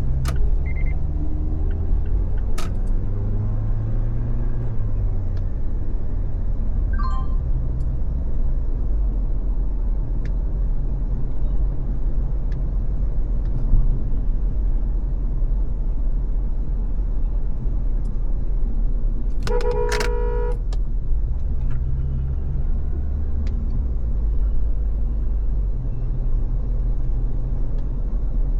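A car driving at freeway speed, with a steady low rumble of road and engine noise. About twenty seconds in, a vehicle horn sounds once for about a second.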